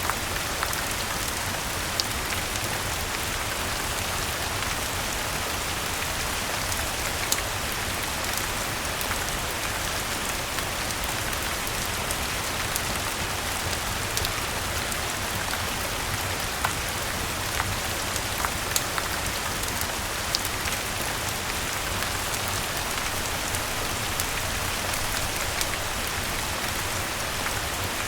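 Steady rain falling on leaves and ground, with scattered sharp clicks and ticks at irregular moments.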